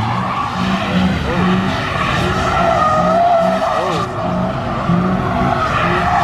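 Car tyres squealing in long wavering screeches over a running engine, the sound of cars spinning their tyres in a sideshow-style burnout or donut session.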